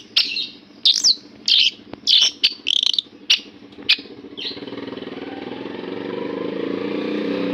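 Long-tailed shrike singing a run of short, sharp, high chirps and whistled notes, about two a second, for the first half. Then the song stops and a steady motor drone comes in and grows louder.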